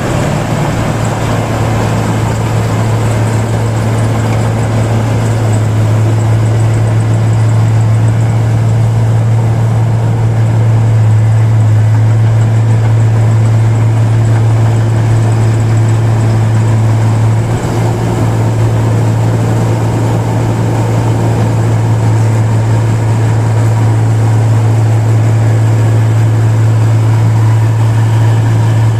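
Paddy rice machine running steadily with a loud, even hum, briefly dipping about halfway through.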